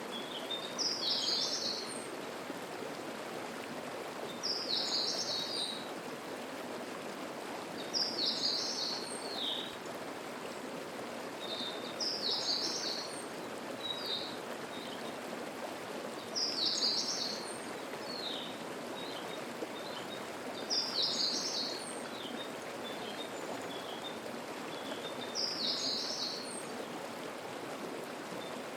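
Mountain stream running steadily over rocks. A songbird repeats a short, high phrase about every four seconds over the water.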